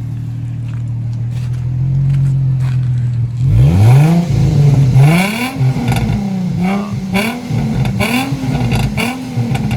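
2003 Infiniti G35's 3.5-litre V6 exhaust with the muffler cut out, idling steadily, then revved repeatedly from about three and a half seconds in, each rev rising and falling quickly.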